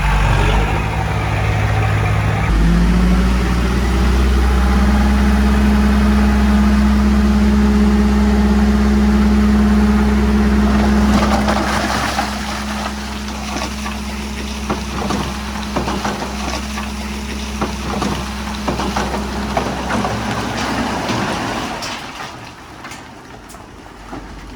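Heavy diesel machinery engine running steadily under load, its note shifting up about two and a half seconds in. From about halfway there is a spell of crunching and knocking, like stone being pushed, and the sound falls off near the end.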